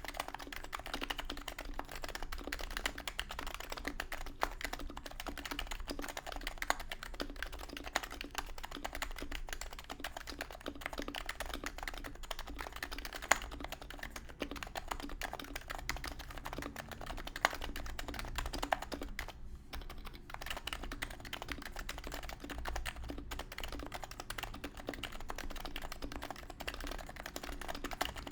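Continuous typing on a Topre electro-capacitive keyboard with aged 45 g HHKB Pro 2 rubber domes, OEM silencing rings, no foam, and an aluminium plate and case: a dense, even run of key presses. There is a short pause about two-thirds through and a couple of louder single strokes before it.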